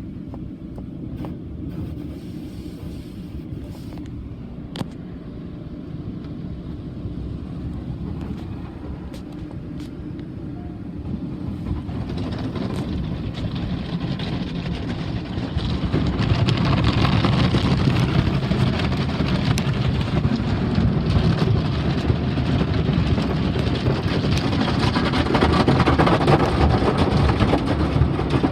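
Automatic car wash running over a car: a low, steady rumble that grows into a louder rushing noise about twelve seconds in, and louder still from about sixteen seconds.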